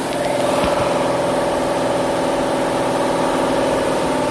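Chevrolet Camaro LT1 6.2-litre V8 engine running at a steady raised idle of about 2000 rpm, heard under the open hood with the intake elbow off.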